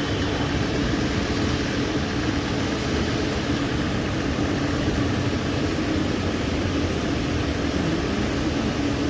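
Steady rumble of a Mumbai local train running, with a constant hum underneath.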